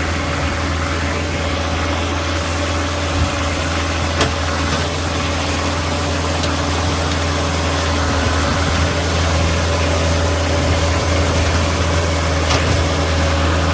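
A steady, even mechanical hum from a running motor, with two faint clicks about three and four seconds in.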